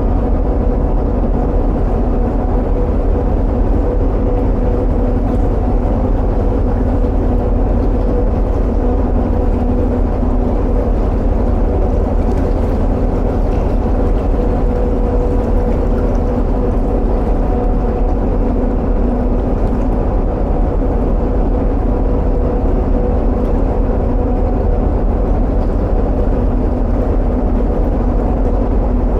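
Narrowboat engine running steadily at cruising speed inside a long canal tunnel, a constant low rumble with a steady hum.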